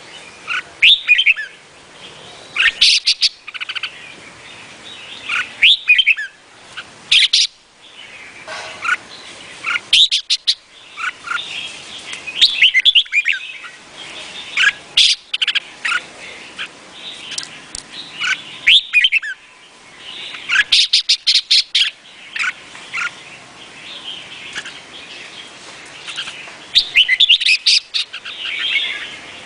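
Red-whiskered bulbul singing: short phrases of quick chirping notes, repeated every second or two.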